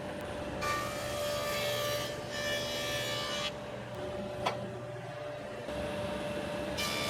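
A General planer or jointer fitted with a helical cutterhead runs with a steady hum and twice cuts a board, each cut a dense shearing whine. The first cut starts just under a second in and lasts about three seconds; the second starts near the end. A sharp click comes between the cuts.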